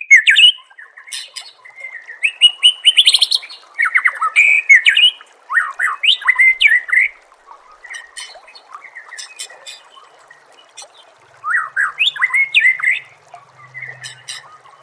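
White-rumped shama (murai batu) singing: loud bursts of varied, quick whistles, sweeping notes and rapid trills, with a quieter lull of faint high notes about midway before another loud burst.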